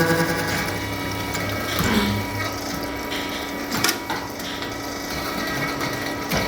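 Shaft milling machine running: a loud, pulsing cutting sound stops about half a second in, leaving the machine's steady hum, broken by a couple of sharp clicks.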